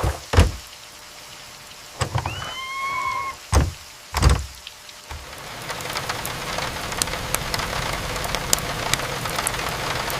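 Four loud thumps in the first half, with a brief wavering squeak among them, then rain falling steadily from about five seconds in, with many sharp drip ticks.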